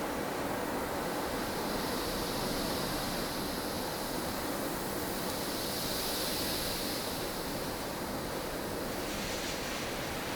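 Strong wind of a blustery snowstorm blowing steadily, a continuous rushing noise with a gust that swells and eases about two thirds of the way through.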